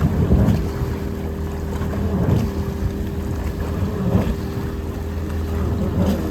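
A boat's engine running steadily with a low drone, swelling about every two seconds, with wind on the microphone.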